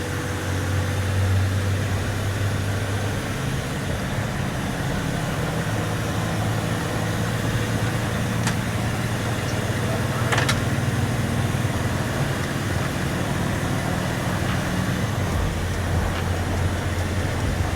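Box truck engine running steadily at idle, a low even hum. There are a couple of faint clicks around the middle, and the engine note shifts lower about three-quarters of the way through.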